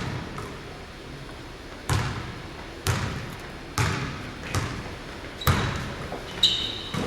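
A basketball being dribbled on a gym floor, bouncing about once a second with a hall echo after each bounce. A short high squeak comes near the end.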